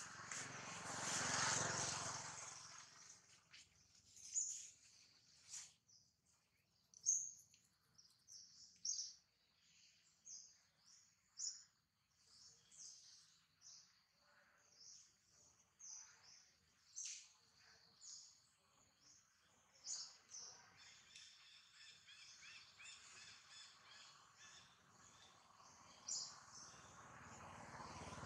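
Faint outdoor ambience of small birds chirping: many short, high chirps scattered throughout. A louder swell of noise comes in the first two seconds, and another builds near the end.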